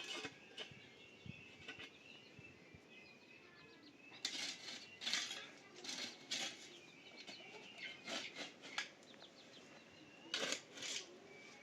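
Chickens making short noisy bursts of sound several times, with small birds chirping faintly in the background.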